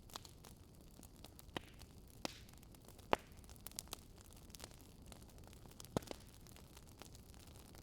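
Wood fire crackling: scattered sharp pops at irregular intervals over a faint steady hiss.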